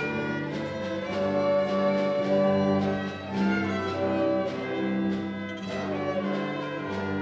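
A string ensemble or orchestra playing classical-style music, with held bowed notes from violins and lower strings.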